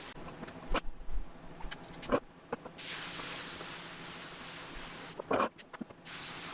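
Paint spray gun hissing while base coat is sprayed onto a car body, in two long passes: one starting about three seconds in and lasting about two and a half seconds, another starting near the end. A few sharp knocks and clicks come between the passes, over a steady background hiss.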